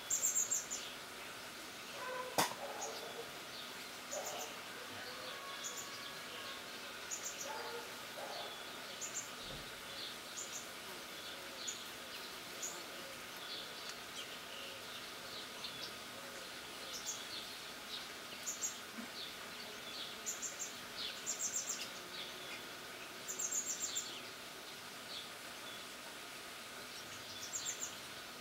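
Outdoor ambience of small birds chirping: short, high, rapidly pulsed calls repeating every second or two, with scattered other chirps over a faint steady background. A single sharp click about two seconds in.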